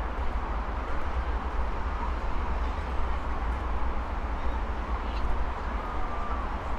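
Steady roar of heavy traffic on a nearby multi-lane avenue, with a deep rumble underneath. A few faint bird calls come through it, about two seconds in and again between five and six seconds.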